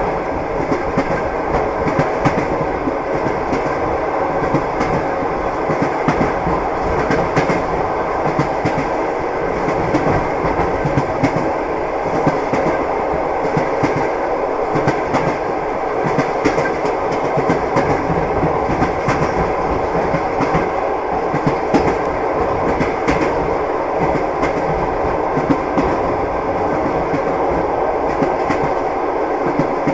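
A moving train's wheels clacking over the rail joints, with a steady running rumble and rattle underneath.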